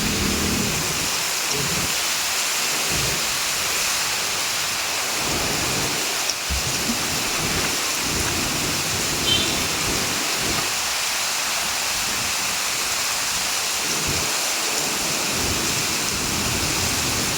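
Heavy rain falling in a steady hiss, with low rumbles that swell and fade every second or two.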